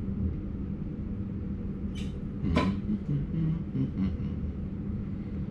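Inside the cab of an NS Sprinter Light Train electric multiple unit: a steady low rumble with a hum, and two sharp knocks about two seconds in, the second the louder.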